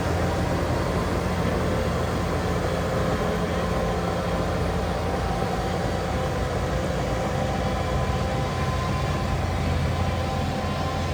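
Heavy earthmoving machine's diesel engine running steadily, a constant low drone with steady higher tones over it.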